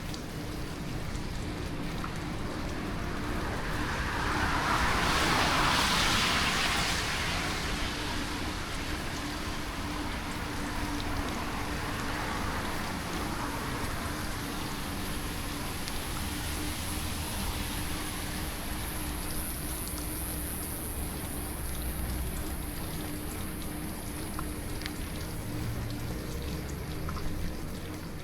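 Steady hiss of tyres on a wet road and wind while riding a bicycle in light drizzle, under a faint steady hum. The hiss swells louder for a few seconds about five seconds in, then settles back.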